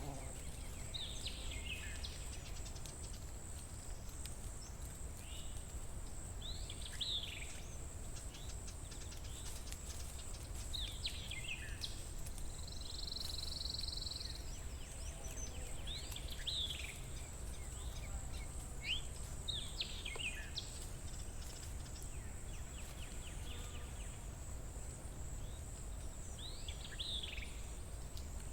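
A songbird repeating a short, high, downward-sweeping call every four to five seconds, six times, over a constant thin high-pitched whine and a low outdoor rumble.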